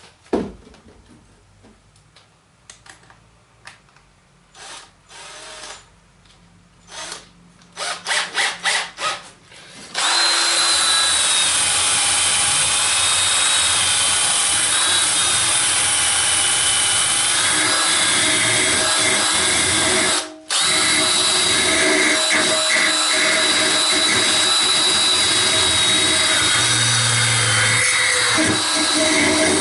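Light clicks and handling knocks, then about ten seconds in a small electric power tool starts and runs steadily, its high whine wavering in pitch as it is loaded. It cuts out for a moment about twenty seconds in and starts again at once.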